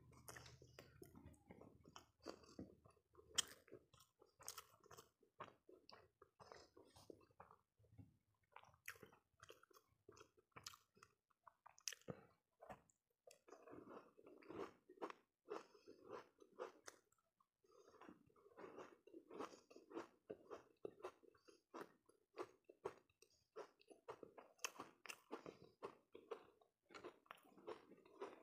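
Faint, close-miked chewing: a person eating by hand, with many short clicks of mouth sounds coming in clusters.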